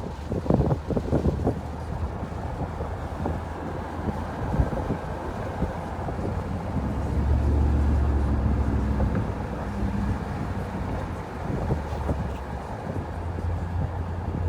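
Mercedes-Benz R129 500SL's V8 with its muffler deleted, heard from the open-top cabin while cruising, under wind noise on the microphone. The exhaust drone swells louder for a couple of seconds about seven seconds in.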